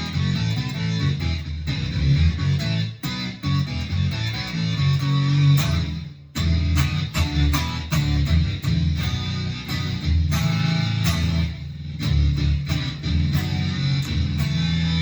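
Electric guitar played through a Boss SY-200 guitar synthesizer pedal on its ring mod lead preset, giving a ring-modulated synth lead tone through an amp simulator. The playing is a run of picked notes with a short break about six seconds in.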